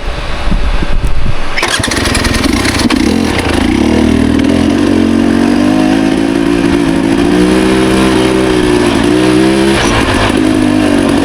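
Dirt bike engine running under the rider's throttle on a trail ride, its pitch rising and falling as the revs change. For the first couple of seconds there is low rumbling and knocking, then the engine comes in strongly.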